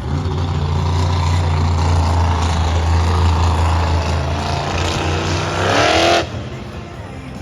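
Monster truck engine running loud and steady, then revving up in a quick rising sweep near the end and cutting off abruptly about six seconds in.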